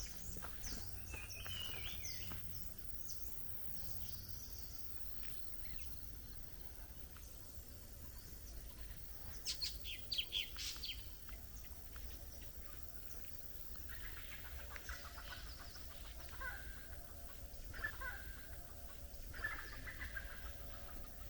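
Several birds calling and chirping in forest, with a cluster of louder, sharp calls about ten seconds in.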